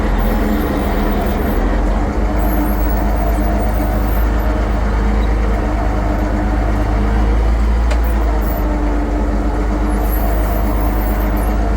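International 1066 tractor's six-cylinder diesel engine running steadily at a constant pitch, a continuous loud drone.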